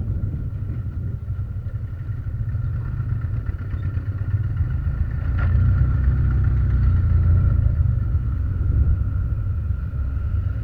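Motorcycle running at road speed, with a steady low rumble and a faint steady whine. It gets a little louder about halfway through.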